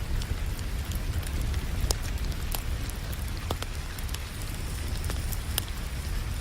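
Wood fire crackling, with sharp pops every second or so, over a steady patter of rain and a low rumble.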